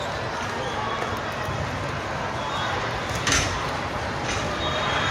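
Steady background of faint spectator voices and ambient noise, with one sharp knock a little over three seconds in.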